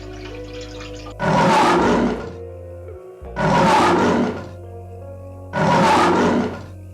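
A big cat roaring: three loud, rough roars about two seconds apart, each lasting about a second, over background music.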